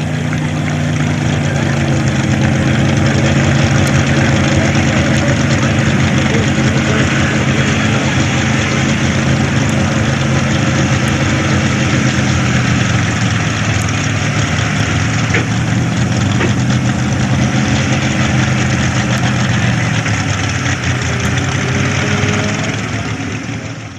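A pulling truck's engine running hard, its pitch sagging about halfway through and climbing again.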